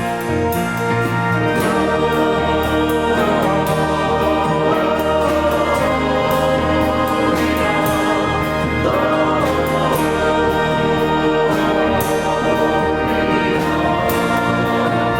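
Choral music: a choir singing sustained chords over instrumental accompaniment.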